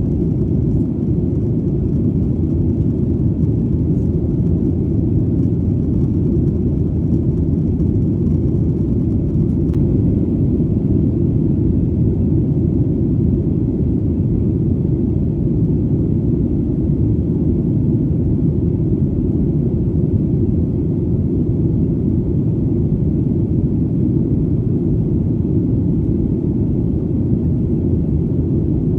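Steady low drone of an airplane in flight, the engine and airflow noise blended into an even rumble that does not change.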